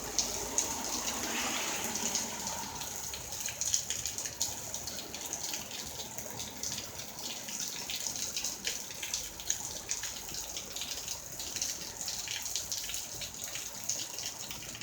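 Heavy rain falling steadily: a continuous hiss with many sharp individual drop splashes close by.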